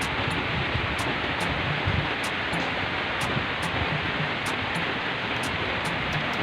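Steady rushing of strong wind ahead of a typhoon, with faint short clicks every half second to second.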